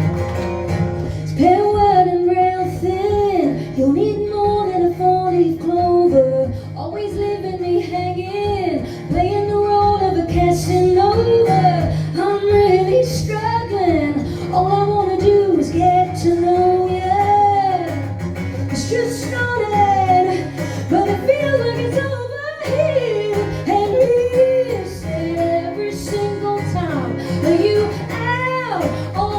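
Live band music with a woman singing lead, her melody arching and sliding over a steady band accompaniment.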